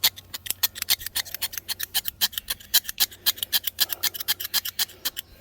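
Quick back-and-forth scraping on a heat-blackened copper electrical connection, several strokes a second, cleaning the soot off down to bare copper.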